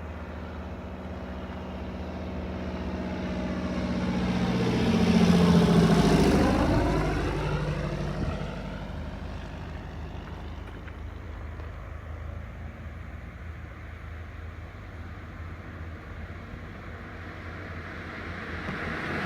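Low-wing light aircraft's propeller engine passing on its landing approach: the drone grows louder to a peak about six seconds in, drops in pitch as the plane goes by, then fades away.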